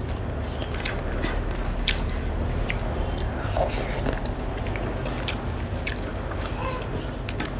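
Close mouth sounds of chewing a mouthful of rice and egg curry eaten by hand, with scattered small wet clicks and smacks, over a steady low hum.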